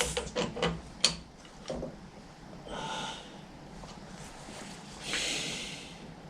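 A few light metallic clicks and knocks in the first two seconds as the lathe chuck is turned by hand to indicate the shaft, then two short breaths through the nose, about three and five seconds in.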